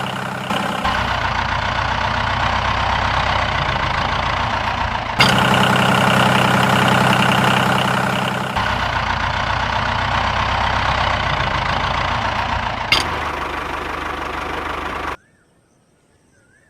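Diesel tractor engine idling with a steady knock, in several stretches that change abruptly from one to the next. It cuts off suddenly about a second and a half before the end, leaving only faint chirping.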